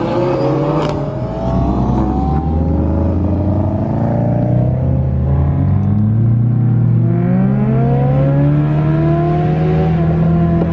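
Twin-turbo Audi R8 V10 engine running under load, its pitch climbing steadily for several seconds and dropping back near the end.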